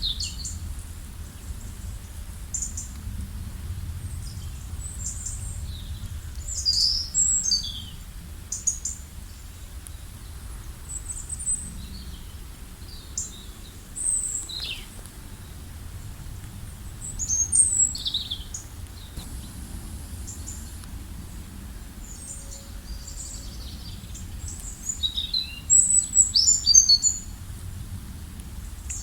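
Wild birds chirping and calling in short, high-pitched bursts. The calls come in scattered clusters, busiest a few seconds in, around the middle and near the end, over a steady low background rumble.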